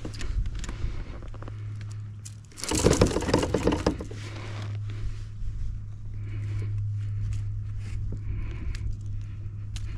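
A small caught fish being brought aboard a kayak and handled: light knocks and pattering, with a loud splashing burst about three seconds in, over a steady low hum.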